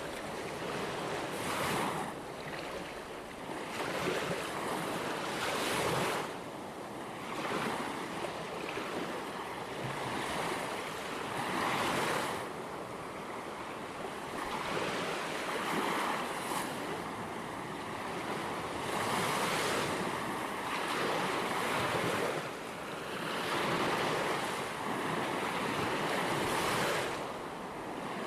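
Ocean waves breaking gently on a shore, the surf swelling and easing every few seconds, with some wind.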